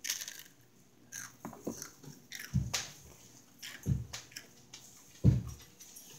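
A crunchy bite into toast, followed by chewing with scattered short crackles, and three dull low thumps, the loudest about five seconds in.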